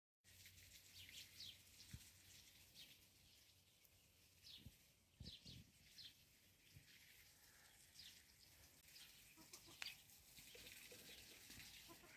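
Faint outdoor garden ambience with small birds chirping in short repeated notes, and a few soft low thumps.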